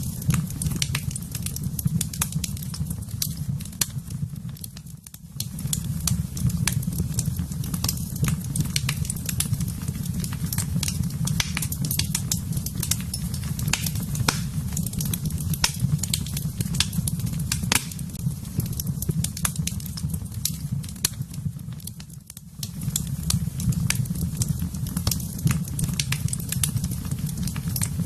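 Wood fire burning in a fireplace: constant crackling with many sharp pops over a steady low rumble. The rumble drops away briefly twice, about five seconds in and again near the twenty-two second mark.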